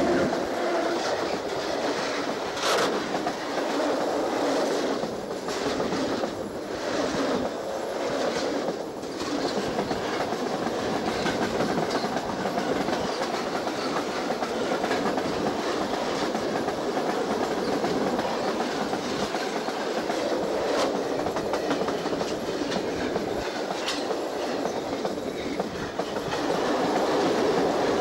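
Freight train wagons rolling directly over a camera lying between the rails: a loud, continuous rattle and rumble of steel wheels on the rails, with a few sharp clacks.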